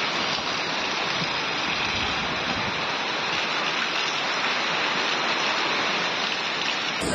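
Heavy rain pouring down in a windy storm: a steady, even hiss.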